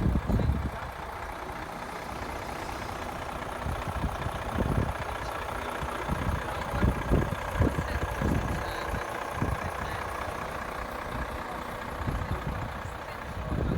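Heavy truck diesel engine idling steadily, with irregular low thuds through it.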